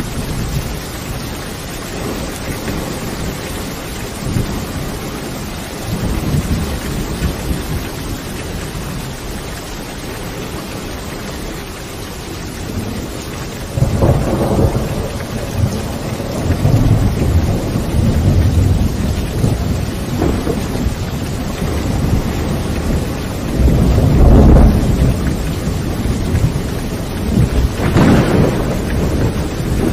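Steady rain with rolling thunder. The rumbling grows louder about halfway through, with strong rolls again near the end.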